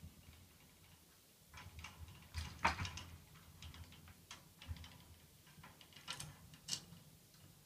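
Scattered light clicks and taps, irregular, loudest about two and a half seconds in, with two sharper ones near the end.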